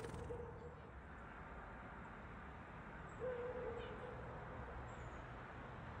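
A bird's low steady hooting call, heard twice: one is already sounding at the start and ends within the first second, and another comes about three seconds in and lasts about a second and a half. A brief flutter of small wings comes right at the start, as a small bird takes off from the deck railing.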